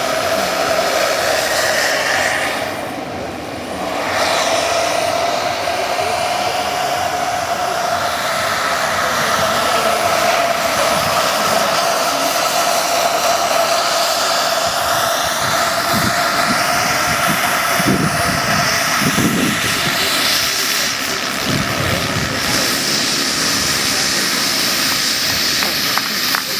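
Turbine-powered RC scale model helicopter flying, a steady turbine whine with slight shifts in pitch. Its level dips briefly about three seconds in.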